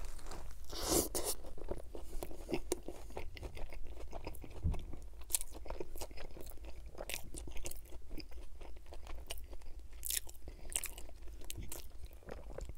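Close-miked biting and chewing of a Wendy's chicken sandwich with ranch: a bite about a second in, then steady irregular crunching as it is chewed.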